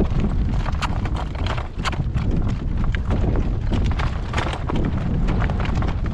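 Hooves of a harnessed driving horse clip-clopping on the road at a steady pace, with strong wind buffeting the microphone as a constant low rumble.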